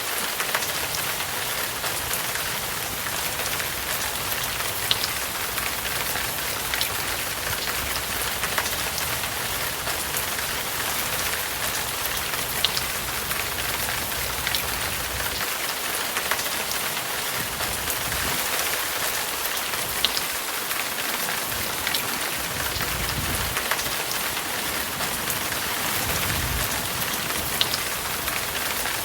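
Steady rain falling, a dense hiss dotted with sharp ticks of single drops, with a few brief low rumbles in the second half.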